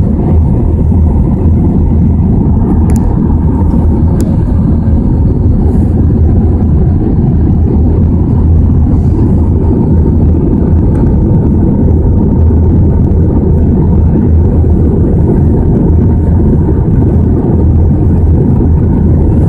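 Steady jet cabin roar inside an Airbus A320 in flight: a loud, even low rush of engine and airflow noise with a faint steady hum above it.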